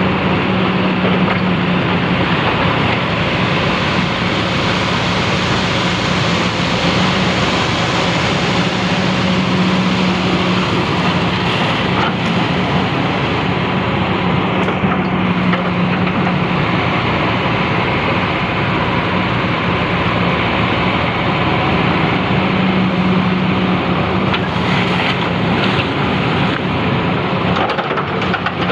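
Excavator diesel engine running steadily, with a constant low hum under a broad rushing noise.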